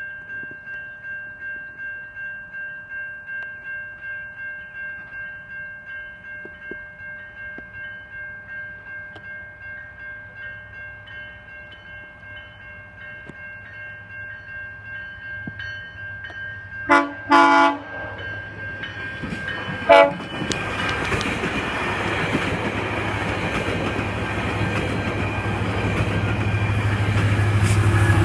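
Level-crossing bell ringing at about two strokes a second. About 17 seconds in, the approaching GO Transit F59PHI diesel locomotive sounds its horn in two quick blasts, then one short blast a few seconds later. After that the locomotive's engine and wheels grow steadily louder as it nears.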